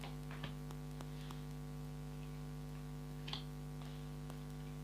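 Steady electrical hum at a fixed pitch with its overtones, a fault in the recording, with a few soft clicks and taps scattered through it, most near the start.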